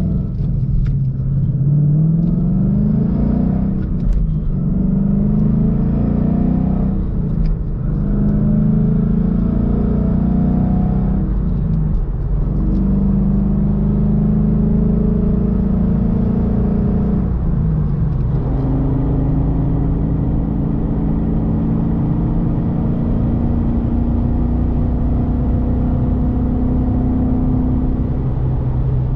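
Ford Mustang GT's 5.0 V8 through a Roush cat-back exhaust, accelerating through the gears of its manual gearbox: the engine note climbs and drops at each shift about four times, then holds a steady pitch while cruising.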